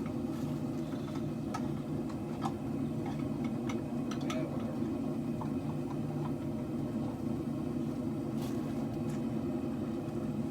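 Two-burner propane forge burners running with a steady low rush. Scattered light clicks and taps sound over it.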